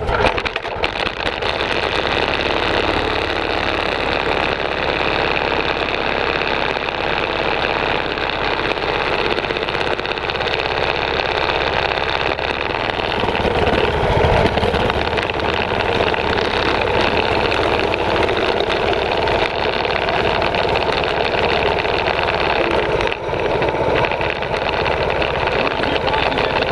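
Small mini bike engine running steadily, slightly louder about halfway through.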